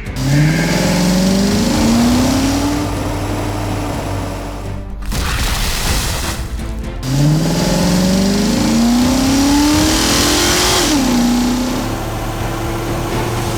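Cartoon vehicle engine sound effect revving up twice. Each rev climbs in pitch for a few seconds and then holds, the second dropping off near the end into a steady lower hum.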